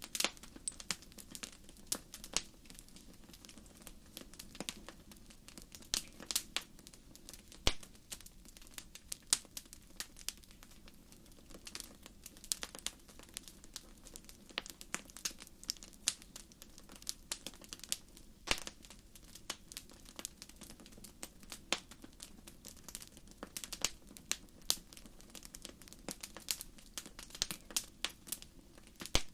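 Wood fire crackling in a fireplace: irregular sharp pops and snaps over a low steady hiss, with a few louder pops.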